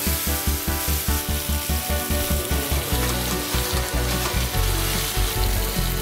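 Sliced mushrooms and onions sizzling as they fry in a stainless steel pan, stirred with a spatula.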